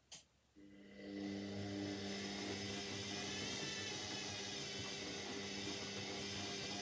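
Indesit 71252 washing machine: a sharp click, then a steady electrical hum starts. It swells within about a second into an even, continuous run with a rushing hiss over it.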